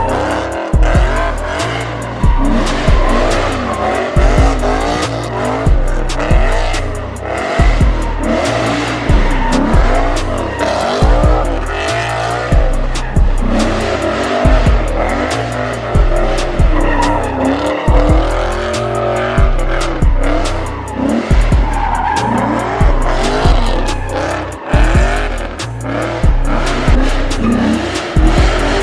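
Cars drifting, tyres squealing and engines revving, under hip-hop music with a heavy, steady bass beat.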